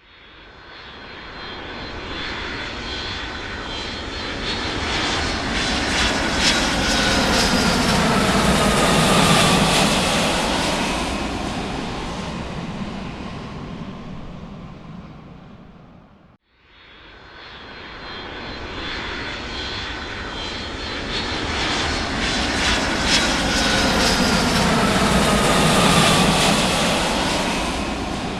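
Jet aircraft flying over. The noise builds to a peak and fades away with a falling whine, then cuts off abruptly and the same flyover starts again.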